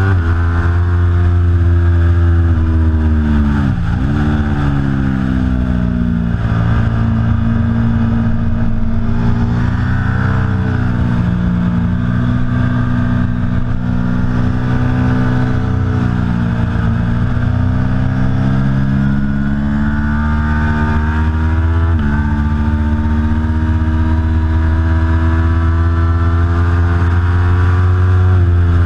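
Aprilia Tuono V4 Factory's V4 engine being ridden hard on track, its pitch climbing and falling with the throttle. The pitch plunges and climbs again about four seconds in, and drops abruptly about three quarters of the way through.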